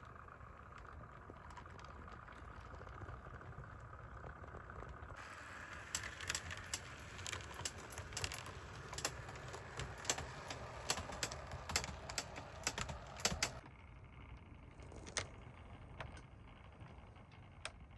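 HO scale model train on the track: a faint steady motor whine, then, from about five seconds in, a long run of light, irregular clicks and clacks from the small plastic-and-metal cars and wheels, thinning out to a few scattered clicks near the end.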